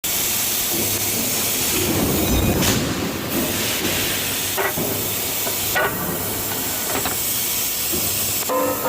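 Hot forging press line for nuts running: a loud, steady hiss and rumble of machinery with a few sharp metallic clanks.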